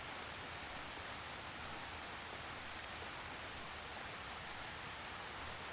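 Steady gentle rain, a soft even hiss of drizzle with faint patter of drops.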